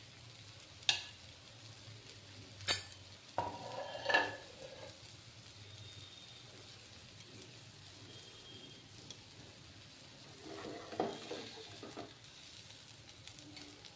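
Potato pancakes frying in oil in a nonstick wok, a low steady sizzle. A few sharp clicks sound in the first four seconds, and about ten seconds in a metal spatula scrapes and clatters against the pan under the pancakes.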